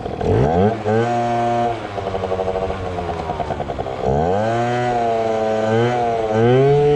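Two-stroke Yamaha ZR Evo scooter engine revving hard. It climbs sharply at the start and holds, eases off, then revs up again about four seconds in, wavering, with another rise near the end.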